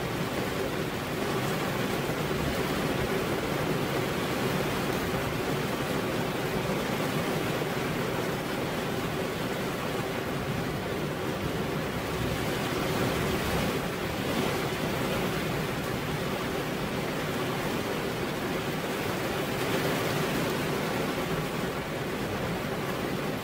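Heavy rain pouring steadily onto a veranda roof, an even unbroken hiss of water.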